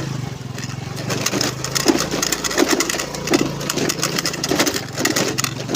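Honda Navi's small single-cylinder engine running steadily while the bike rides over a rough off-road track, with irregular crunching and rattling knocks from the tyres and body on the broken ground.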